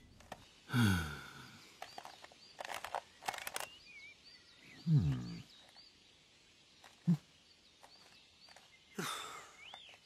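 Cartoon woodland ambience with faint small birds chirping, broken by two short low groans that fall in pitch, about a second in and again about five seconds in, and a few light clicks.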